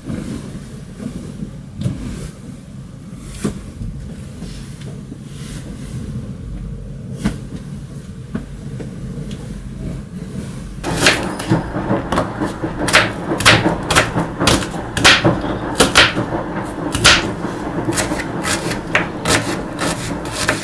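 Household handling noise: a steady low hum with a few scattered clicks, then about halfway through a busy run of sharp knocks and clatter.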